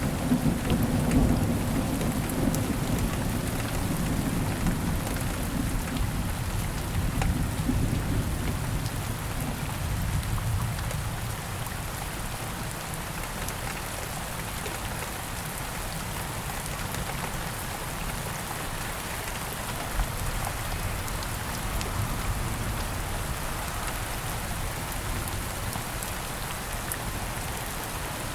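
Steady rain falling, with a low rumble of thunder rolling through the first ten seconds or so before fading away.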